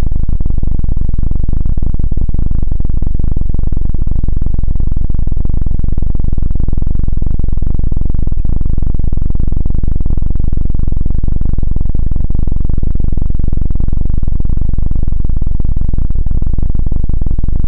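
Loud, heavily distorted helicopter-style rotor sound: a steady, fast throbbing 'dududu' buzz, heavy in the bass, that holds unchanged and stops abruptly just after the end.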